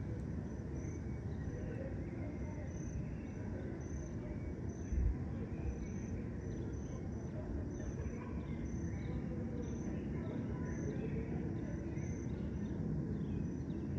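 Crickets chirping in a steady, regular series of short high pulses, with scattered bird chirps, over a constant low rumble of distant city traffic. A brief low thump about five seconds in.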